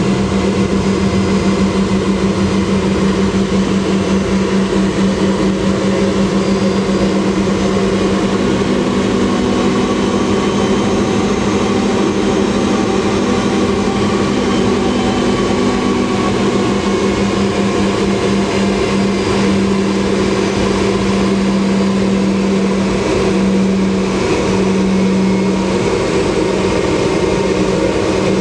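Boeing 717's rear-mounted Rolls-Royce BR715 turbofans running, heard from inside the cabin as a steady roar with a strong low hum that pulses slightly and fainter higher whines.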